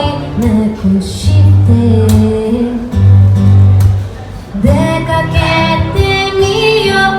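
Acoustic guitar strummed as accompaniment, played alone between sung lines; about four and a half seconds in, the singer's voice comes back in over the guitar.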